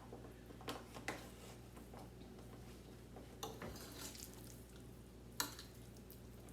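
Faint scattered clicks and light knocks of kitchen handling, food and containers being moved about, over a steady low hum.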